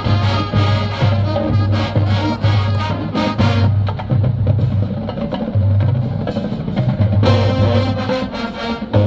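Marching band playing: brass over drums with a heavy, pulsing low beat. The upper brass drops away for a few seconds mid-way, leaving mostly drums and low brass, then comes back in near the end.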